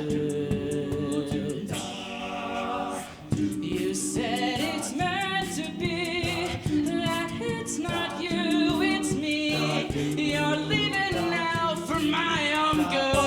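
All-male a cappella group singing a pop arrangement: several voices in harmony, with vibrato on the upper lines, over a beat kept by vocal percussion. The sound dips briefly about three seconds in, then comes back fuller.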